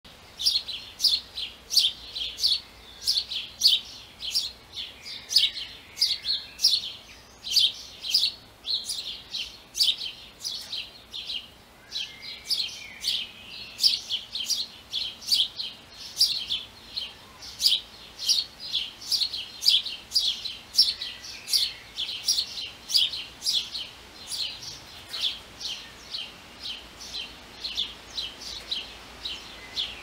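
A bird giving a long, regular series of short, sharp chirps, about two or three a second, with a fainter second bird calling now and then.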